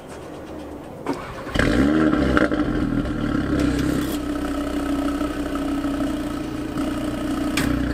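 2017 Audi TT RS Roadster's turbocharged 2.5-litre five-cylinder engine starting through its sports exhaust: a click, then it fires about a second and a half in with a rev flare that rises and falls, and settles into a steady idle.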